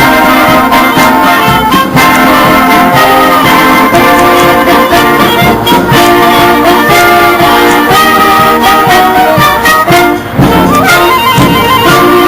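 Band music led by brass instruments, with held and moving notes, and a brief drop in level about ten seconds in.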